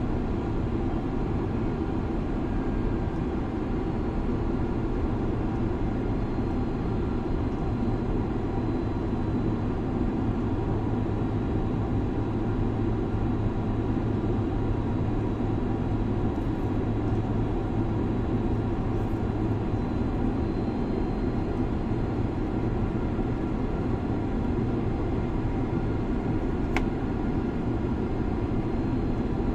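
Steady rushing drone of a jet airliner in flight, heard from inside the cabin, with a low hum under it. One short click comes near the end.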